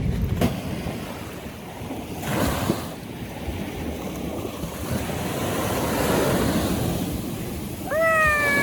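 Sea surf washing onto a beach, with wind on the microphone. The wash swells about two seconds in and again around six seconds. Near the end a high, drawn-out whine starts and slowly falls in pitch.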